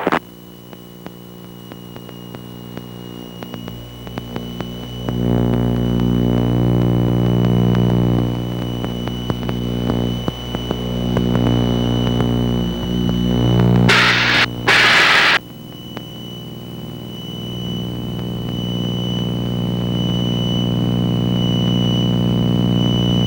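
Steady electrical hum with a thin high whine on the cockpit intercom and radio audio, swelling louder about five seconds in. Two short bursts of static come at about fourteen and fifteen seconds.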